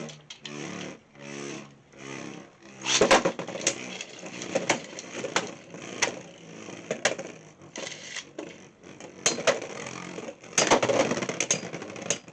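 Beyblade X spinning tops in a plastic stadium: a pitched whirring hum in short pulses over the first couple of seconds, then the tops clashing, with many sharp clicking hits scattered throughout and the heaviest flurries about three seconds in and near the end.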